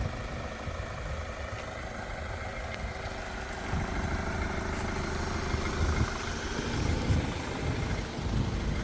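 Vauxhall Movano's 2.3-litre CDTI diesel engine running with a steady low rumble, which gets somewhat louder about four seconds in.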